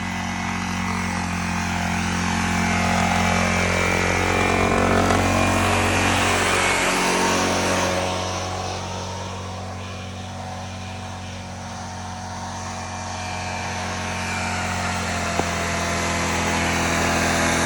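Engine of a modified riding lawn mower running under load as it is driven through muddy ruts. The sound grows louder over the first few seconds, falls off around ten seconds in, then builds again, with the pitch sliding up and down.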